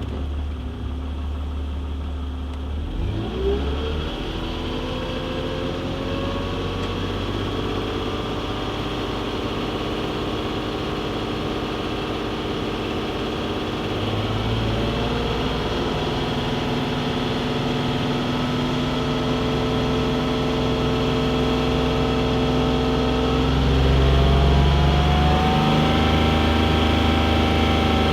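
1994 BMW E36 320i inline-six engine idling, then slowly raised in revs in three steps and held steady at each higher speed, getting louder. The owner thinks it sounds like it needs a valve adjustment.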